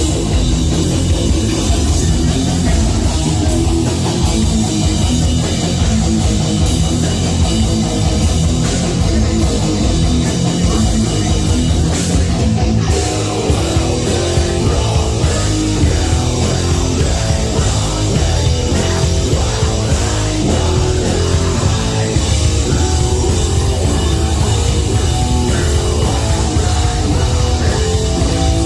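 A heavy metal band playing live and loud: distorted electric guitars and a pounding drum kit, continuous and without a break.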